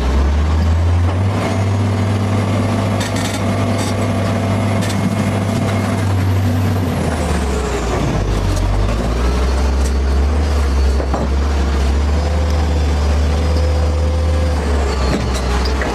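Heavy earth-moving machine's engine running steadily with a deep drone. About seven seconds in it drops in pitch, then holds steady at the new speed, with a few knocks along the way.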